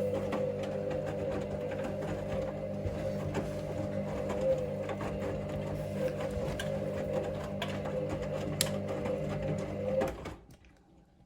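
Hoover Link washing machine's drum turning during the main wash: a steady motor hum with light clicks and knocks, cutting off suddenly about ten seconds in as the drum stops.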